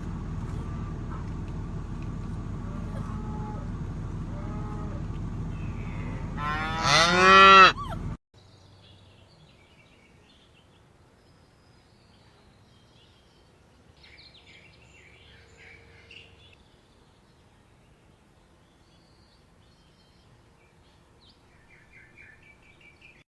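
An animal's single loud, pitched call about seven seconds in, over steady background noise that cuts off a second later. A much quieter stretch follows with faint high chirps.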